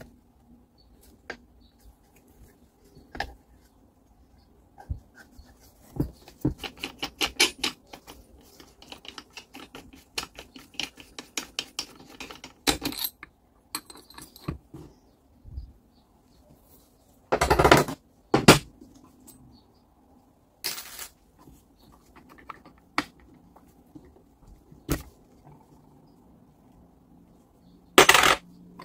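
Metal tools and small grinder parts clicking and clinking on a workbench during hands-on work. A quick run of clicks comes about a quarter of the way in, and several louder metallic clatters come in the second half.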